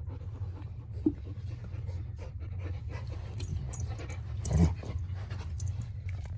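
Golden retriever dogs playing rough: panting and scuffling, with a short sharp sound about a second in and a louder one about four and a half seconds in.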